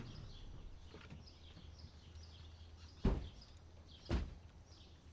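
Outdoor ambience with small birds chirping repeatedly over a low steady hum. Two dull thumps about a second apart, the first about three seconds in.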